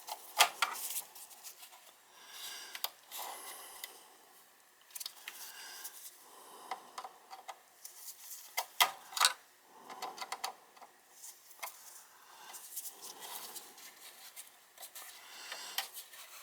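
Scattered small clicks, taps and rustles of hand tools and thin wire being handled while low-voltage thermostat wiring is connected on a gas furnace.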